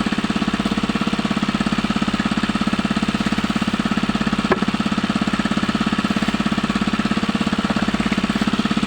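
Small engine running steadily with a rapid, even chugging. A single sharp click about halfway through.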